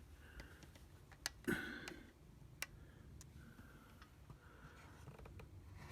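Faint handling noise with a few sharp clicks and a short rustle about a second and a half in, over a low room hum.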